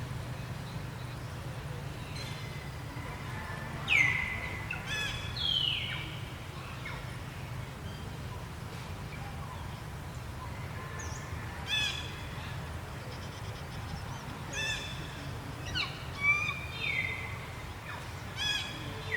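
Repeated high-pitched animal calls, each one short and falling sharply in pitch, over a steady low hum. The loudest call comes about four seconds in, and several more follow in the last third.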